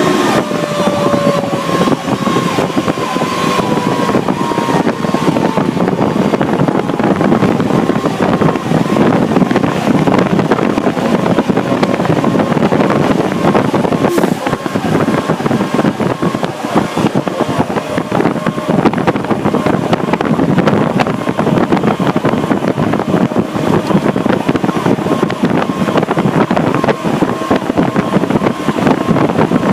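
Pierce Arrow XT tiller ladder truck running on the road, a steady loud rush of engine, road and wind noise. A siren winds down, falling in pitch and fading out over the first few seconds.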